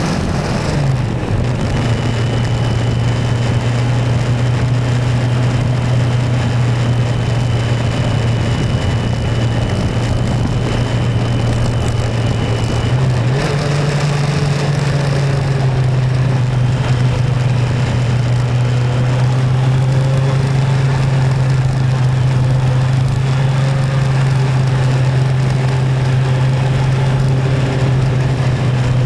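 Motorcycle engine running steadily on the move, with its pitch stepping up a little about halfway through. A faint high whine sounds over it for the first ten seconds or so.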